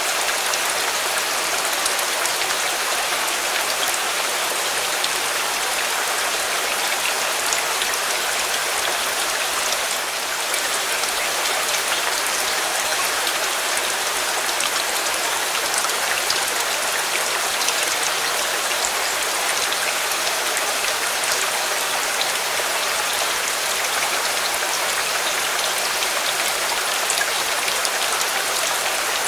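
Steady rain falling, an even hiss with scattered small ticks of individual drops.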